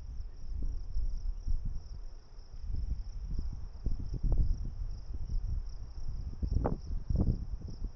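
Steady high-pitched chorus of insects, likely crickets, running without a break. Under it, an uneven low rumble with scattered soft knocks, the loudest part of the mix.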